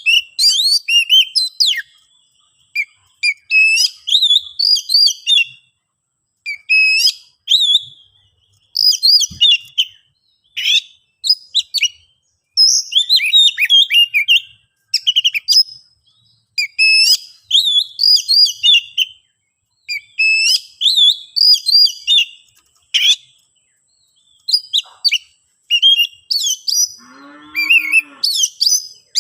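Oriental magpie-robin (kacer) singing in an agitated, fighting mood: loud bursts of rapid, varied whistles and chirps broken by short pauses. A single lower call comes near the end.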